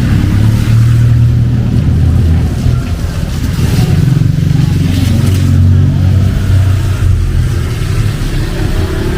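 Motor vehicle engines running close by in street traffic: a loud, low, steady hum whose pitch shifts slightly as engines rev.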